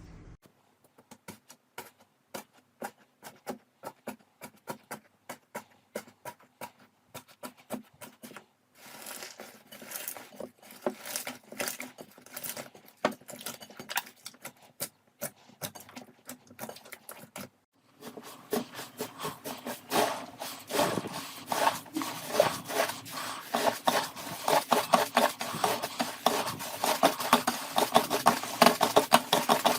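Slime being played with by hand, making sharp clicks and pops, at first spaced about one or two a second. About 18 seconds in, after a brief break, it changes to a louder, faster run of crackling pops.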